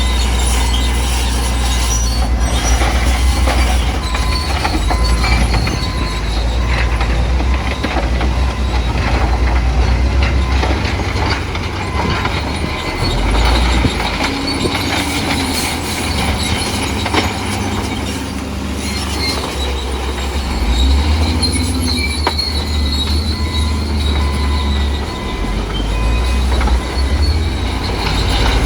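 Bulldozer at work: its diesel engine running with a heavy low rumble that rises and falls, and its steel crawler tracks squealing and clanking.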